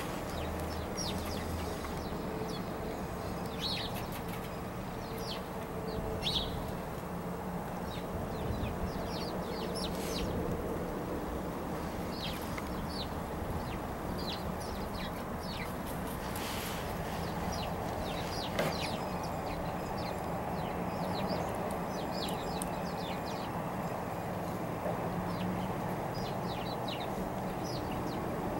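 Birds chirping: many short, high chirps scattered throughout, over a steady low background rumble.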